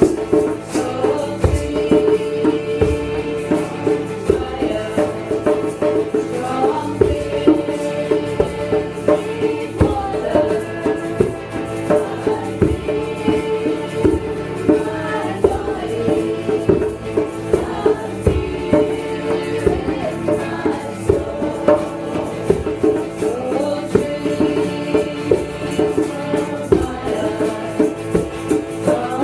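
Live kirtan music: a steady drone under a sung melody, with a shaker rattling and regular drum strokes.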